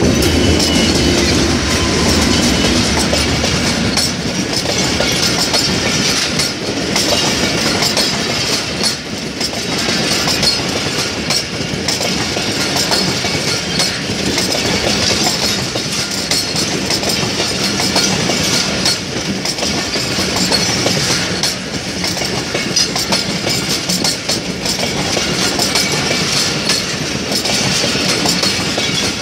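Diesel-hauled passenger train passing close by at speed. The locomotive goes by at the start, then a long rake of coaches rolls past with a continuous rumble and a rapid clickety-clack of wheels over the rail joints.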